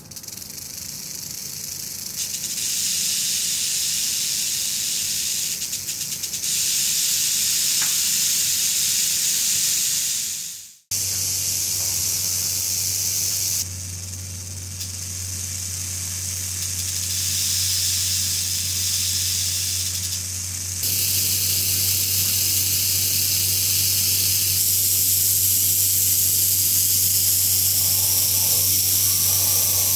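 Rattlesnakes rattling: a continuous high buzzing hiss in several takes that cut and restart, one cutting out sharply about eleven seconds in. A low steady hum runs beneath the later takes.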